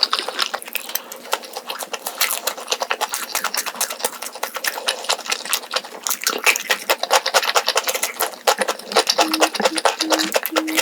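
Close-miked eating sounds: rapid wet clicks of chewing and slurping food. Near the end a low tone starts beeping on and off about twice a second.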